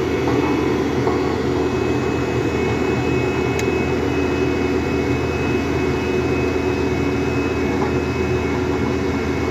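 Road roller's engine running steadily while it compacts the road surface, a constant engine note with a high steady whine over it.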